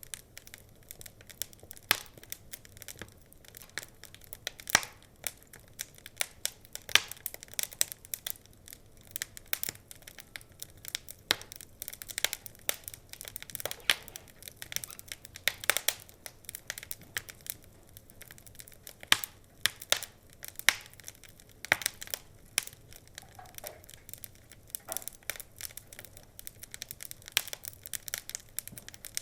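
Wood fire crackling: irregular sharp pops and snaps, several a second, over a faint hiss, with a few louder pops now and then.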